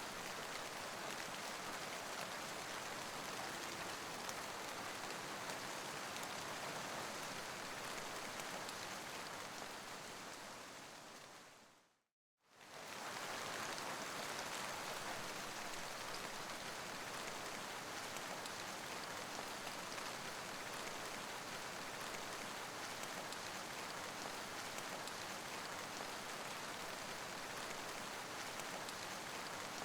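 Recorded rain sounds: a steady, even hiss of rainfall. About ten seconds in it fades down to silence, then fades straight back up, like the join in a looped track.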